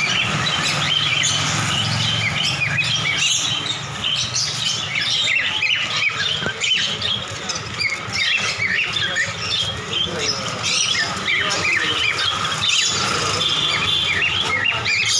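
A crowd of caged small birds, lovebirds and finches, chirping and squawking at once in a dense, unbroken chatter.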